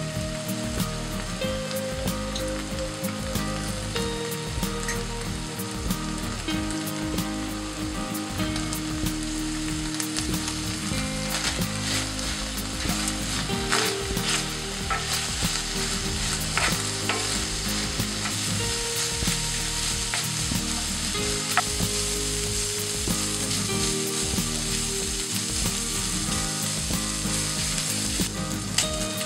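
Chicken breast strips sizzling in oil and butter in a frying pan. A spatula stirs and scrapes them, with clicks against the pan coming more often in the second half.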